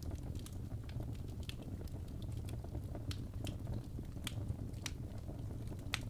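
Wood fire crackling: irregular sharp pops and snaps, a few a second, over a steady low rumble.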